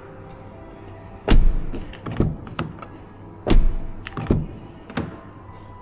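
Car door of a Mazda CX-50 being handled as someone gets in: two heavy thunks about a second and a half apart, with lighter knocks and taps in between and after.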